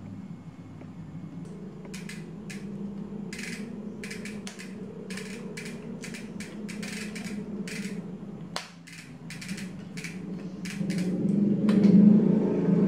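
Short metallic clicks and rattles of a bicycle chain being handled and fitted, over a steady low hum that grows louder near the end.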